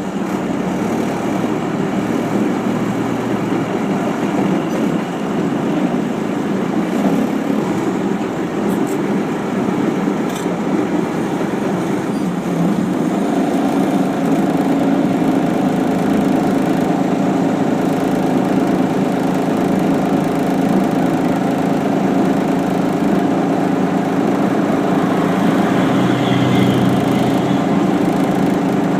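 An engine running steadily, with a constant pitch that grows a little louder about halfway through.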